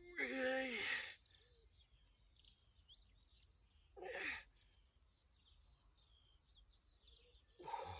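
A man's grunt of effort followed by a heavy exhale a few seconds later, with a third breath near the end, as he works through a resistance-band exercise. Faint birdsong chirps in between.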